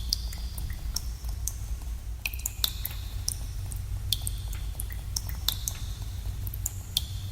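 Water drops falling into shallow pools in a cave: irregular plinks, several a second, each with a short ringing tone, over a steady low rumble.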